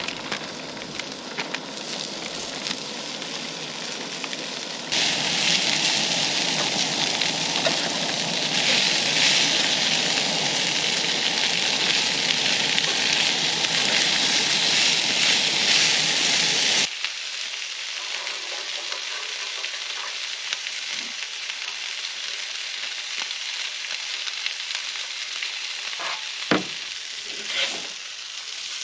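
Steak fajita ingredients sizzling and frying in a pan on a camp stove. The sizzle jumps abruptly louder about five seconds in and drops back abruptly a little past halfway, and a few sharp clacks, like a utensil in the pan, come near the end.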